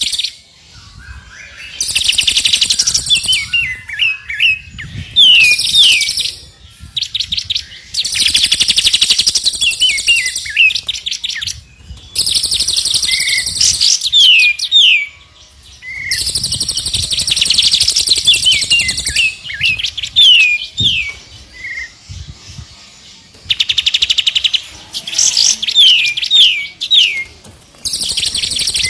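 Songbird song from a recorded training (masteran) track: bursts of very rapid, high trills lasting a second or two alternate with pairs of short falling whistles, with brief pauses between phrases.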